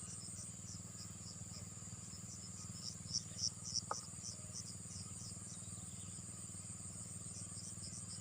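Insects chirping: a steady high trill with evenly repeating chirps about three times a second. A low steady hum runs underneath.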